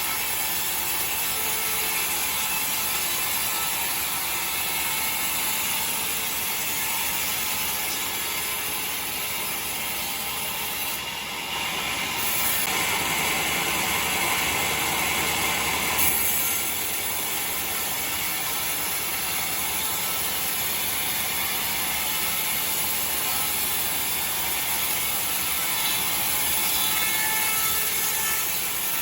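Sawmill machinery running steadily, with a louder, harsher stretch about halfway through that lasts a few seconds.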